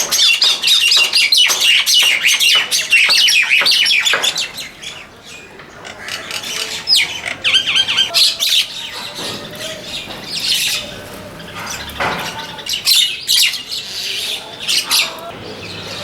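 A mixed flock of mynas and other small songbirds calling at a feeding spot: a dense chorus of overlapping calls for the first four seconds, then thinner, scattered calls.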